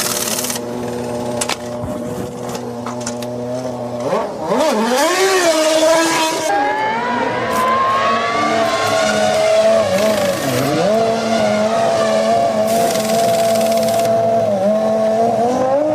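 Formula One car's 3-litre V10 engine, holding a steady note for the first few seconds, then rising and falling sharply through several gear changes, then holding a high steady note with a brief dip near the end.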